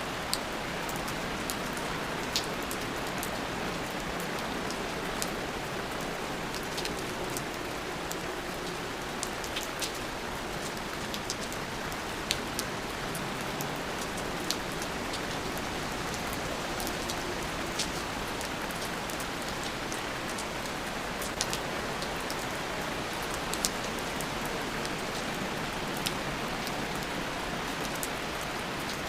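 Steady rain falling, an even hiss with scattered sharp drips and drop impacts.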